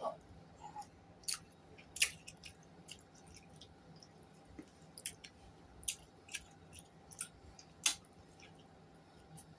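Close-up eating sounds: chewing with irregular wet mouth clicks and lip smacks, the loudest about two seconds in and near the end.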